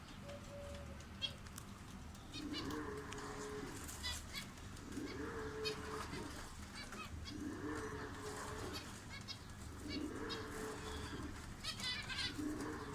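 A dove cooing, one phrase of several notes repeated about every two and a half seconds, with small birds chirping over it.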